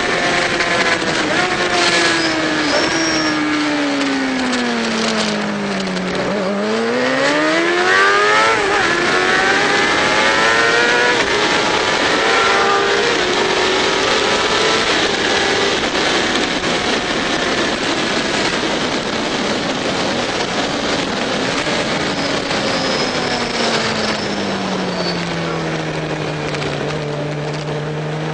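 Racing Triumph motorcycle engine heard from on board, its pitch dropping as the rider slows for a corner, then climbing sharply under hard acceleration about seven seconds in and held high. It falls again later as the bike slows for the next bend, and settles to a lower steady note near the end.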